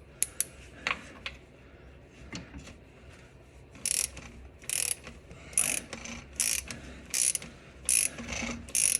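Hand ratchet wrench clicking as it turns out the short front 15 mm starter-mounting bolt. A few single clicks come first, then from about four seconds in a steady run of short clicking strokes, a little under one a second.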